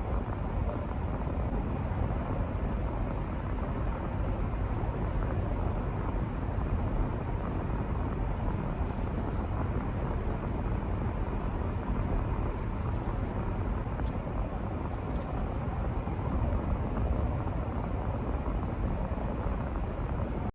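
Steady road and engine noise heard inside the cabin of a moving Jeep Grand Cherokee, a low even rumble.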